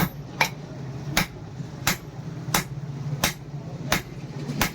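Hammer blows forging steel on an anvil, evenly paced at a little under one and a half strikes a second, with a steady low hum underneath.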